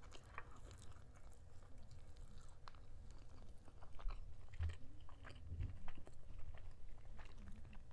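Close-miked chewing of a chicken drumstick, with scattered wet mouth clicks and smacks. A few dull low thumps come about halfway through.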